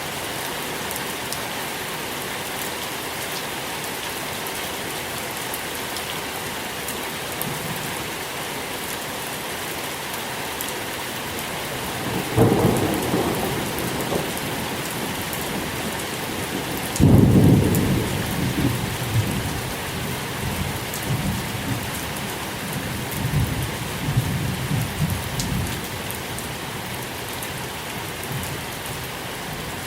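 Steady rain with thunder: a low clap about twelve seconds in, then a louder one a few seconds later that rolls on in uneven rumbles for several seconds before fading.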